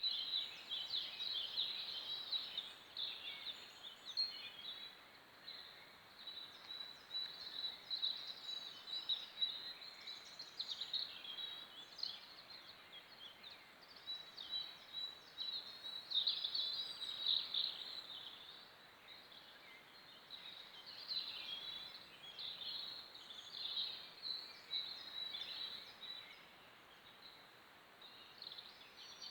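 Morning chorus of many woodland songbirds singing at once: overlapping high chirps and trills without a pause.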